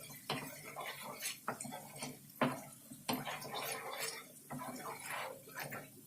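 A cooking utensil stirring and scraping a thick chilli-tomato sauce frying in oil in a pan, with irregular taps and clicks against the pan.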